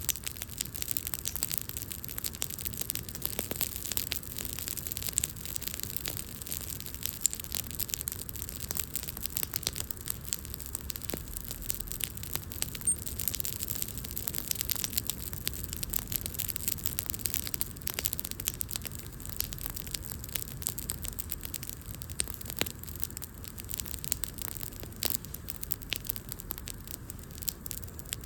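Wood fire burning, crackling with frequent small irregular pops and snaps over a steady soft hiss.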